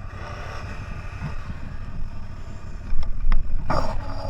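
CFMoto 1000 off-road vehicle's engine running steadily while driving, with wind buffeting the microphone. A couple of sharp knocks come about three seconds in, followed by louder rushes of noise near the end.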